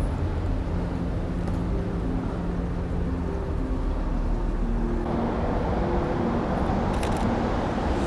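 Street traffic ambience: a steady low rumble of road traffic, with a louder hiss setting in about five seconds in.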